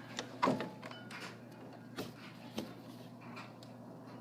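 A few light knocks and clicks over a low steady background, the loudest about half a second in and two weaker ones about two seconds in and a little after.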